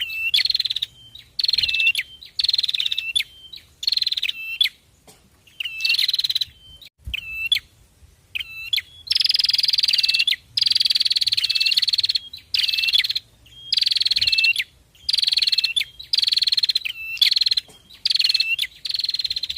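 Songbird singing a rapid buzzy trill over and over, roughly one or two phrases a second, each phrase falling slightly in pitch and ending in a short hooked note; two longer trills come about nine and eleven seconds in.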